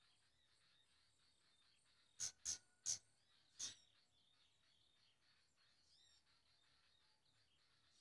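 Four short, sharp bird chirps in quick succession, about two to three and a half seconds in, over faint, thin bird calls.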